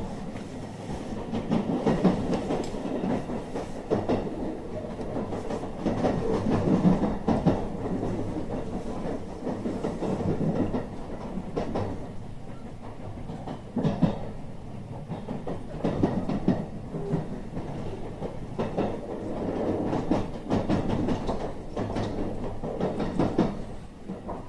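JR Special Rapid electric train running at speed, heard from inside the carriage: a steady rumble of the running gear, with the wheels clacking now and then over rail joints.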